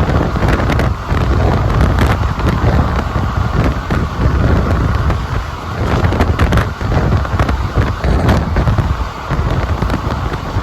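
Moving passenger train heard from aboard: a loud, steady rumble of wheels on the rails with irregular clattering knocks, and wind buffeting the microphone.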